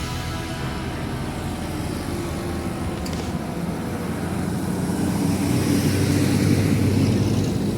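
Heavy truck engine running and drawing closer, growing louder over the last few seconds.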